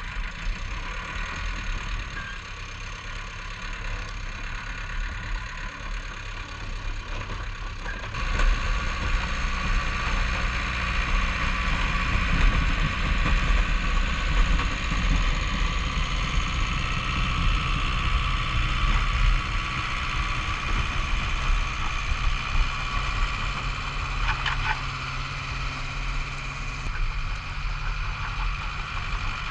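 Bulldozer's diesel engine running steadily, with a low drone and a higher whine over it; it gets louder about eight seconds in and stays up.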